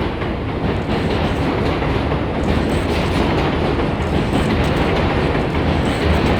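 R62 New York City subway train running on the track: a steady rumble with the wheels clicking over rail joints, growing slightly louder.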